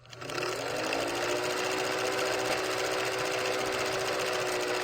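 A small motor-driven machine starts with a click, spins up briefly, then runs at a steady pitch with a fast, even buzz.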